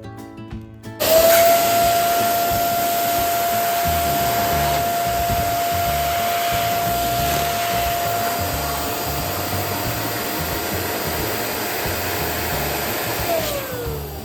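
Electric balloon inflator pump switched on about a second in, running steadily with a high motor whine, then switched off near the end, its pitch sliding down as the motor winds down.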